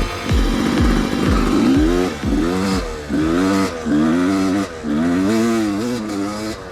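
1993 Yamaha YZ250 two-stroke dirt bike under hard throttle, its engine note climbing and dropping back four times, as if revving through gears up a hill. Electronic music with a thumping kick drum fades out in the first second or so.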